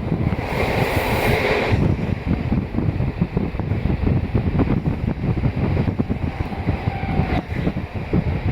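Diesel railcar of the Donan Isaribi Railway running, heard from inside the car: a steady low rumble of the engine and wheels on the rails, with a brief louder hiss between about half a second and two seconds in.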